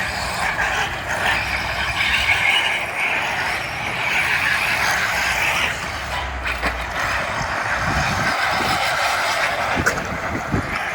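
Electric radio-controlled cars running, a steady buzz of motors and drivetrains, with a few low thumps about eight to ten seconds in.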